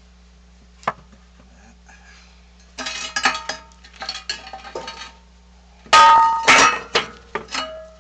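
Steel tools and parts clanking and clattering against each other, with a short ringing after the hits. There is one sharp click about a second in, a run of rattling clinks in the middle, and the loudest clanks near the end.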